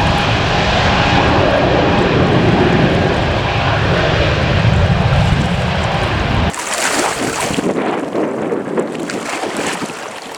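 Jet engine rumble of a departing Airbus A320neo airliner, a loud, steady roar that cuts off abruptly about six and a half seconds in. After the cut there is wind buffeting the microphone with a higher hiss.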